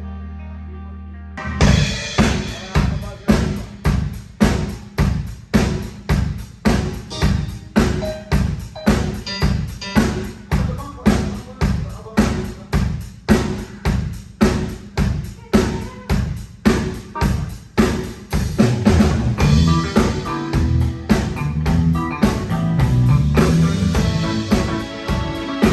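A live drum kit plays a steady beat, about two hits a second, with bass drum and snare. It starts after a held chord rings out, and about two-thirds of the way through a bass line joins in.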